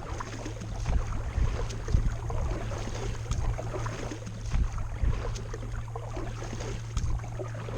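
Small water splashes and light knocks around a kayak hull, over a steady low hum.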